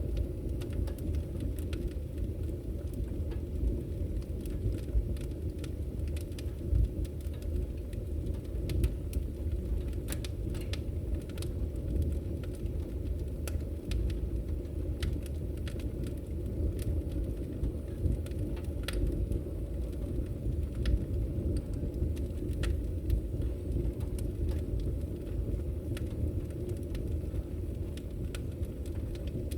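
Log fire burning in a fireplace: irregular sharp crackles and pops from the burning wood over a steady low rumble of the flames.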